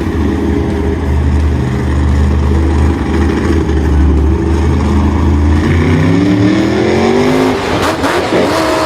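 Engine running at a low, steady pitch, then revving up with a rising pitch about six seconds in, followed near the end by a spell of knocks and clatter.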